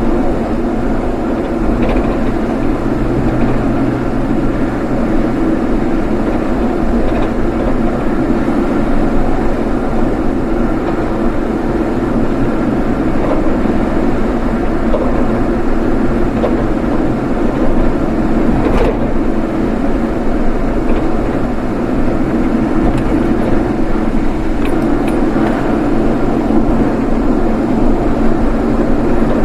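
Steady running noise of a vehicle driving along a road: engine and tyre noise that holds constant, with a faint tick about 19 seconds in.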